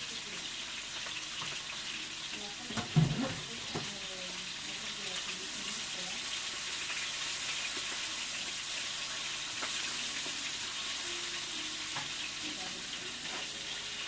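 Ingredients just added to the pot frying with a steady sizzle, with a brief knock about three seconds in.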